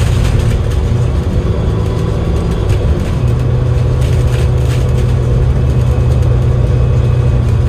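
Cummins L9E inline-six diesel engine of an Enviro500 MMC double-decker bus, heard from on board while the bus is under way. Its low hum wavers and drops for about two seconds near the start, then holds steady.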